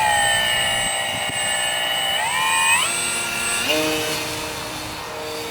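Electric motor and propeller of an RC foam model glider whining under power at launch. The whine rises in pitch twice, two to three seconds in, then drops sharply to a lower steady pitch.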